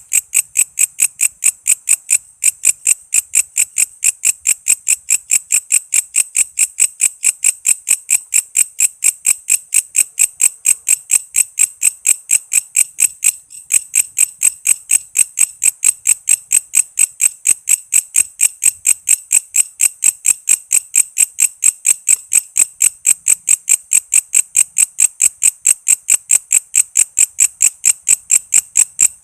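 Walang kece singing insect calling: a continuous train of sharp, high-pitched chirps at about four a second, with a momentary gap about 13 seconds in.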